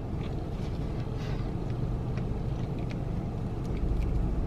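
Steady low vehicle rumble heard from inside a parked car, with a few faint small clicks.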